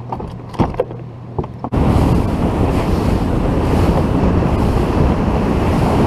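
Boat running at speed across the water, with wind buffeting the microphone: a loud, steady rush that cuts in suddenly about two seconds in and stops abruptly at the end. Before it come a few sharp clicks and splashes over a low hum.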